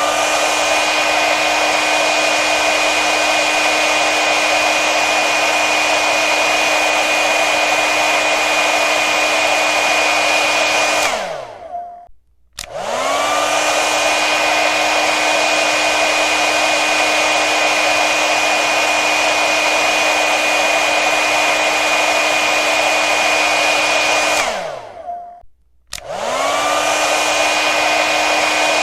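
Hair dryer blowing: a steady rush of air with a motor whine. Twice it is switched off, the whine falling away into a moment of silence, then switched back on, the whine rising back up to speed.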